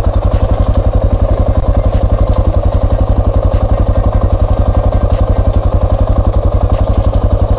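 Single-cylinder dual-sport motorcycle engine running at low, steady revs, an even rapid beat of about a dozen pulses a second with no revving.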